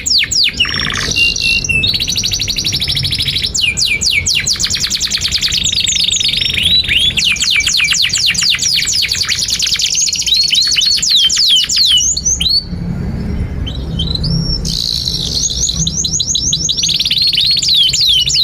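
Domestic canary singing a long, continuous song of rapid trills and repeated down-sweeping whistled notes, with abrupt changes between phrases.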